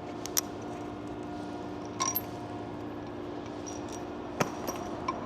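A few sharp metallic clinks and knocks of steel parts and hand tools during axle reassembly, over a steady low hum.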